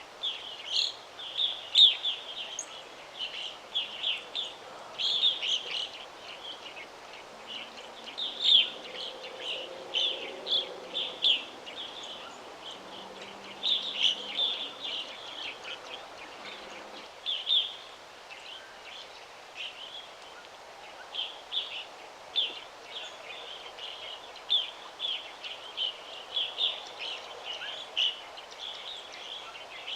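Birds chirping continuously in a busy chorus of short, high calls over a faint steady background hiss.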